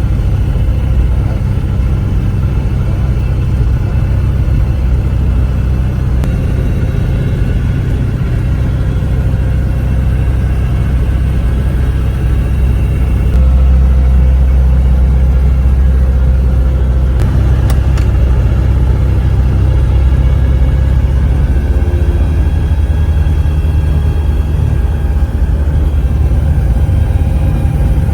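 Rotax 915 iS turbocharged four-cylinder engine and pusher propeller of a Magni M24+ Orion autogyro, heard on board as a loud steady low drone with wind rush. It gets louder about halfway through, as if power is increased.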